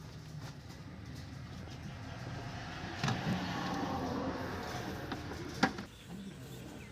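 Engine running with a steady low hum that grows louder for a few seconds in the middle, with two sharp clicks.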